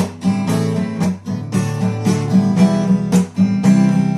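Acoustic guitar strummed in a steady rhythm, about two strokes a second.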